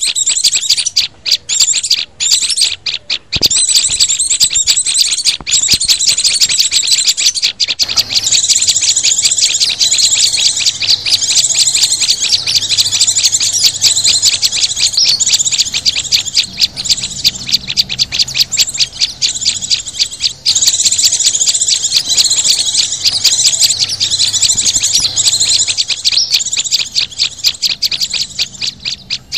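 Bird-lure recording mixing the calls of small songbirds (white-eyes, prinias, sunbirds, flowerpeckers): a loud, dense, rapid chatter of high-pitched chirps, nearly unbroken, with a few brief gaps in the first few seconds.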